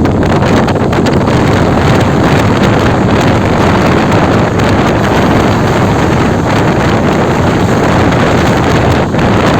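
Loud, steady wind buffeting the microphone, over the rumble of a moving vehicle.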